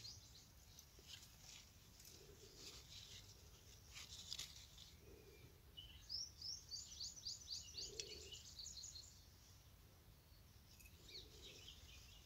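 Near silence with faint songbird chirping: a quick run of repeated high chirps a little past halfway, and a few more near the end.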